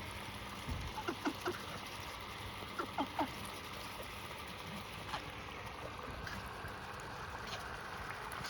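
Ducks feeding on scattered cracked sunflower seeds, with a few short soft calls in two brief clusters, about a second in and about three seconds in, over a steady background hiss. A single low thump just before the first cluster.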